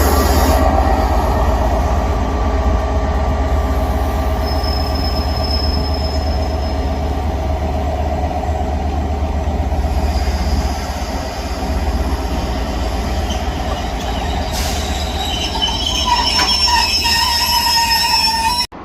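Locomotive-hauled train passing on the rails: a steady low rumble of wheels, with a high wheel squeal briefly about five seconds in and squealing again near the end, where the sound cuts off suddenly.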